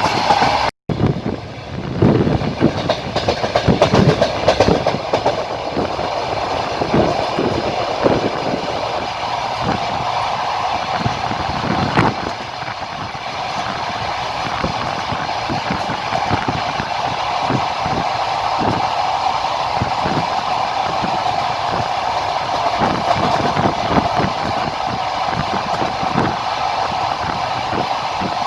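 Railway carriage wheels rolling along the track, heard from inside the train: a steady rumbling ride noise with repeated clacks as the wheels cross rail joints, thickest in the first few seconds. The sound cuts out for a moment less than a second in.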